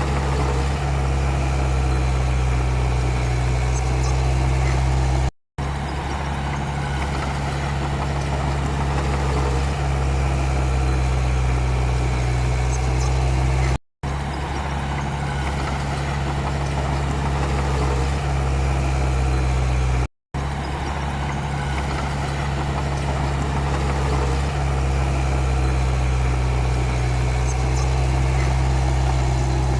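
Komatsu D31P crawler bulldozer's diesel engine running steadily with a deep low drone. The sound cuts out for a split second three times.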